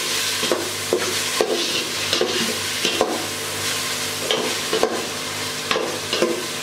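Onions, tomato, green chillies and spices sizzling in hot oil in an aluminium pot, stirred with a metal slotted spatula that scrapes the pot bottom in irregular strokes about once or twice a second. This is the bhunai stage, the masala being sautéed.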